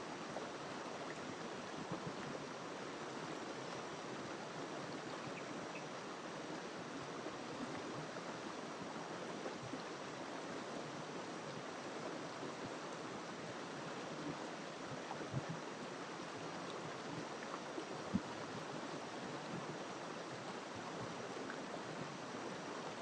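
River water flowing over rocks, a steady rushing with a few brief splashes, the loudest about two-thirds of the way in.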